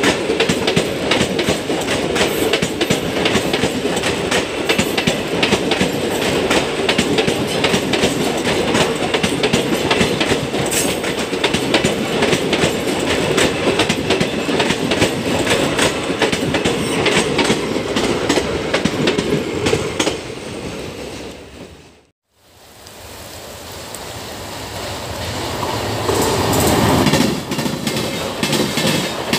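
Indian Railways passenger coaches passing close by, their wheels clattering rapidly over the rail joints with a steady rumble. About two-thirds of the way through the sound fades out, then fades back in as another train's coaches pass.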